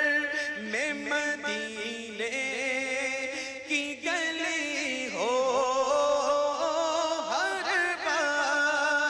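Devotional Urdu naat singing: drawn-out, melismatic vocal phrases with several voices layered together, with no words picked out in this stretch.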